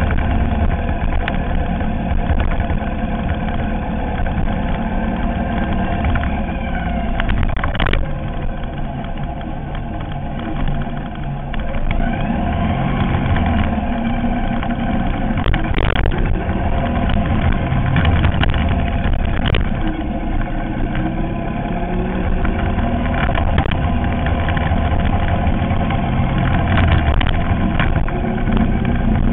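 Ural sidecar motorcycle's air-cooled flat-twin engine running on the move, its pitch rising and falling as the rider accelerates and eases off. A few sharp knocks come through, about a third and two-thirds of the way in.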